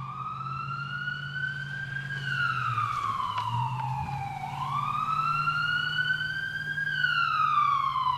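Wailing siren, its pitch rising for about two seconds and then falling for about two and a half, through nearly two full cycles, over a steady low hum.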